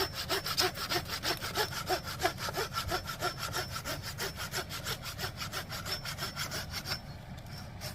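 Rhythmic rasping strokes, about three a second, that stop about seven seconds in.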